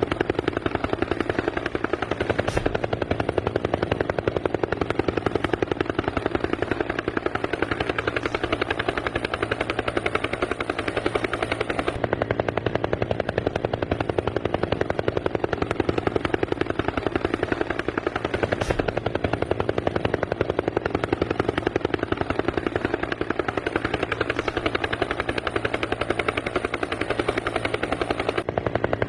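Helicopter rotor sound: a steady, rapid chopping that runs on without a break.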